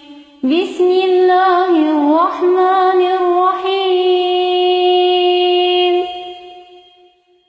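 A solo female voice reciting the Quran in melodic, unaccompanied tajweed chant. It makes ornamented pitch turns, then holds one long note that fades away near the end.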